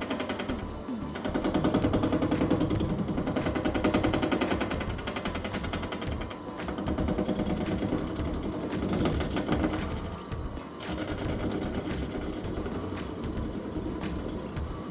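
Lathe tool cutting a resin blank spinning between centers, chattering in a rapid rattle that swells and eases several times. Music plays underneath.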